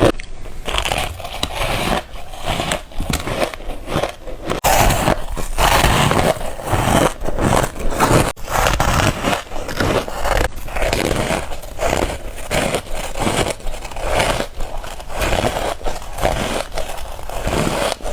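Close-miked biting and chewing of crunchy freezer frost chunks, a steady run of crunches several times a second.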